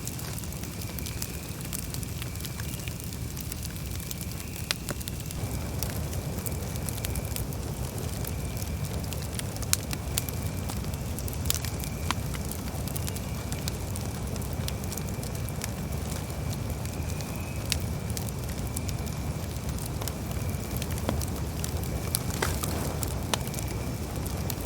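Campfire burning: wood crackling with scattered sharp pops over a steady low rush of the flames. A faint steady high-pitched tone runs in the background.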